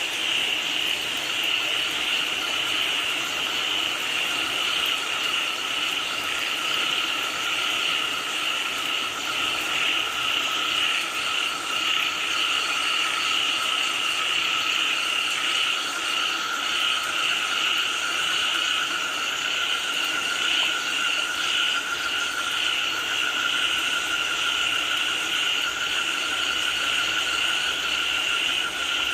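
Dense chorus of frogs croaking over steady falling rain. A second, lower-pitched chorus joins about a second in.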